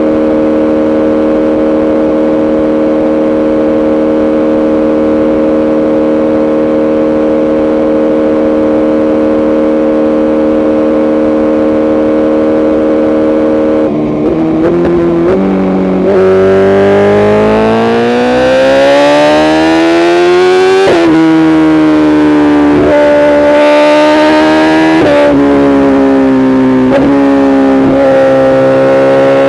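A BMW S1000RR's tuned inline-four engine running at a steady engine speed for about half the time, then accelerating hard. The pitch climbs, drops sharply three times as it shifts up, and climbs again.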